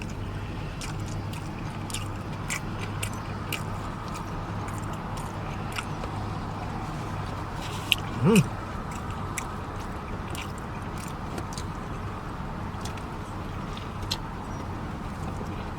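Close-miked chewing, with small wet clicks and smacks of a mouth eating a turkey sub sandwich, and a short voiced 'mm' about eight seconds in, over a steady low background hum.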